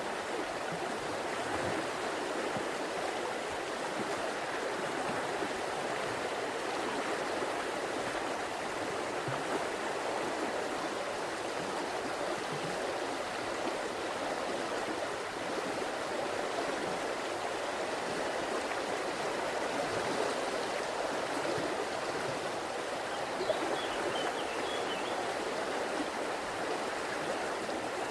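A river's water running steadily over rocks, a continuous rushing and babbling.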